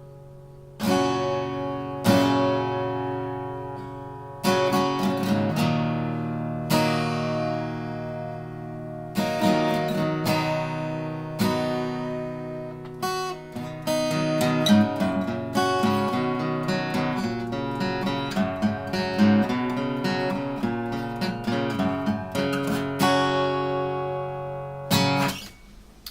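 Seagull Entourage acoustic guitar with a solid spruce top, strummed through chords. At first single strums ring out about every two seconds, then quicker strumming patterns start about nine seconds in, and the last chord fades near the end. It has a warm, full sound, with every note chiming out.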